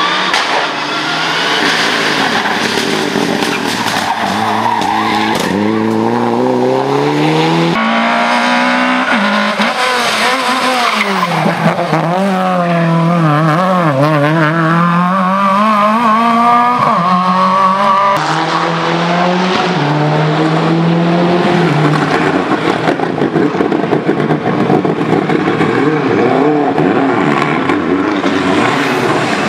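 Rally cars racing flat out on a stage: engines revving hard, pitch climbing through the gears and then wavering up and down as the throttle is lifted and reapplied, with tyre squeal. The sound jumps abruptly twice, about a quarter and about two-thirds of the way through.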